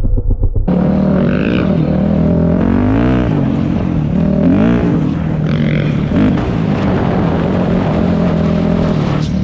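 Dirt bike engine running under load, the revs rising and falling as the throttle is worked, with two quick rev swells about three and five seconds in.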